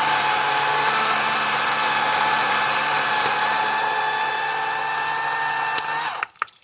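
Kobalt 40V Max cordless electric chainsaw cutting cedar, its motor whine sagging slightly under load, likely on the back cut of a felling cut. Near the end the pitch rises as the load comes off and the saw stops abruptly, followed by a few sharp cracks and clicks.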